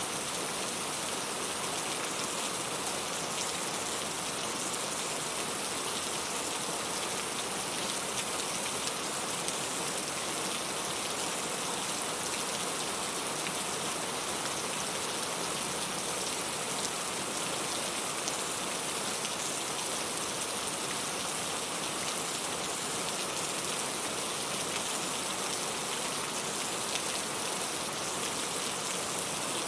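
Steady rain with many fine drops pattering on a surface, an even hiss with no thunder.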